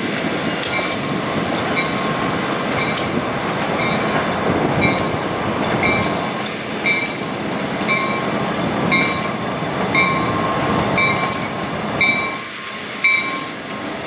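A train backing past, with passenger cars and then two EMD GP38-2 diesel locomotives rolling by over the rails. Over the rumble, the locomotive bell rings in evenly spaced strokes.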